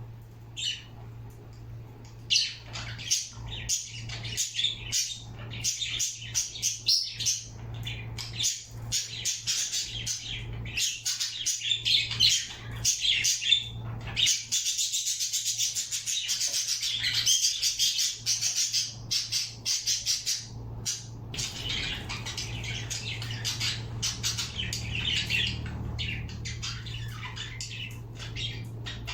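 Pet birds chirping and squawking in rapid, continuous chatter, busiest around the middle, over a steady low hum.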